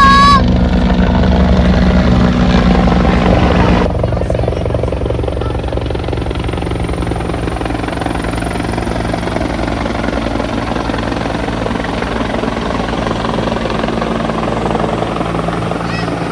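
Helicopter rotor and turbine running steadily close by, a continuous low rumble that drops suddenly in level about four seconds in and then holds steady.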